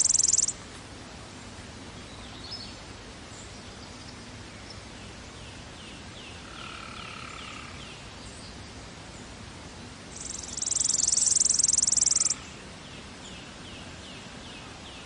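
Outdoor background noise with two loud, rapidly pulsing insect-like trills, the first ending about half a second in and the second lasting about two seconds near the end. Faint short chirps repeat in between.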